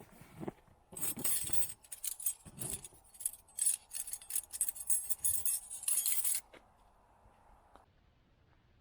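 A quick run of light clinking and rattling, as of small hard objects being handled, starting about a second in and lasting about five seconds.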